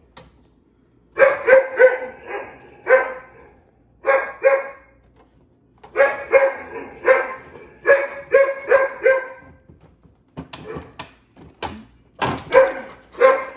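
A dog barking repeatedly, in volleys of two to four sharp barks with short pauses between them.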